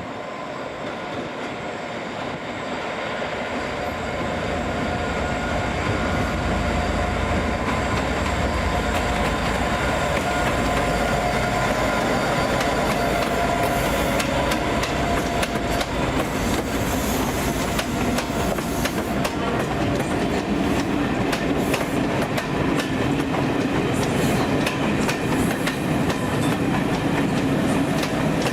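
A train running along the station tracks at close range, growing louder over the first few seconds as a steady hum with several tones and a low rumble. From about halfway on, its wheels click rapidly over rail joints and points.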